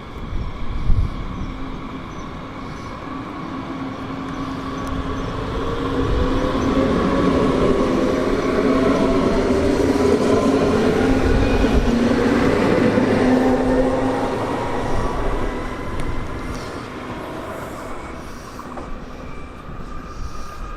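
A train passing through the station, its sound swelling to its loudest about halfway and then fading, with whining tones that slide in pitch over the rumble of the wheels.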